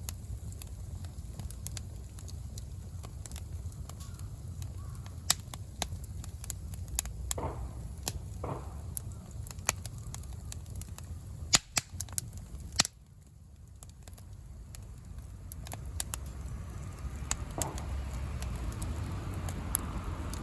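Bonfire of firewood, cut wood, dry grass and bamboo shoots crackling, with scattered sharp pops over a low steady noise of the flames. The loudest pops come in a cluster about twelve seconds in, and the fire then grows into a fuller hiss near the end.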